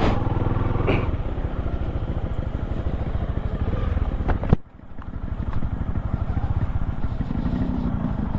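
Motorcycle engine running on the move, a steady low pulsing throb. About halfway through there is a sharp click, and the sound drops away for a moment before the engine comes back.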